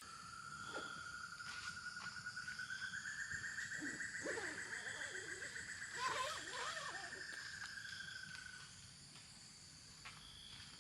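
A cicada's buzzing call pulsing rapidly, rising in pitch a few seconds in, holding, then fading out near the end. Chirping calls sound beneath it around the middle.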